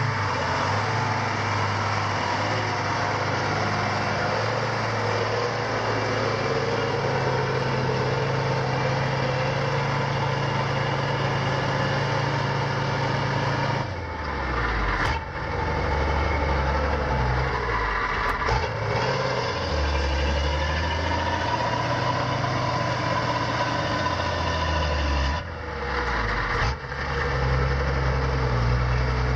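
A heavy vehicle's engine runs steadily. Its low drone shifts in pitch about halfway through and again near the end.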